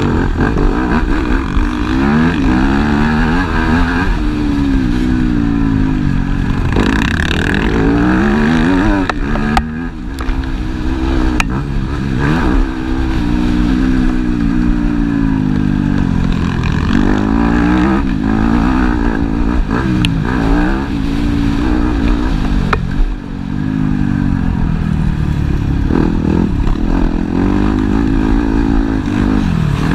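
Several motocross motorcycles racing, their engines revving up and dropping back again and again as they accelerate and shift. The overlapping engine notes rise and fall continuously.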